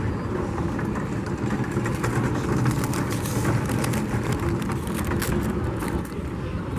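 Engine running steadily with a low rumble, with scattered light clicks and knocks over it.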